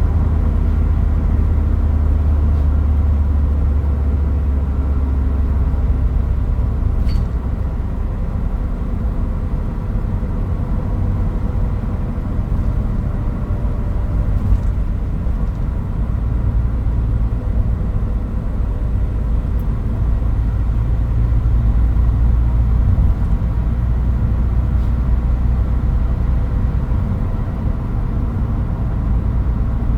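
Toyota Hilux Mighty-X pickup driving on the road: a steady low engine and road rumble, with no pronounced changes in revs.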